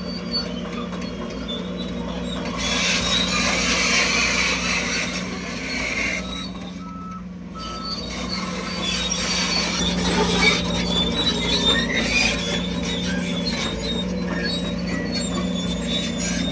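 Crawler bulldozer working: a steady diesel engine drone with high squealing and grinding from its steel tracks. Two short beeps sound about six to seven seconds in.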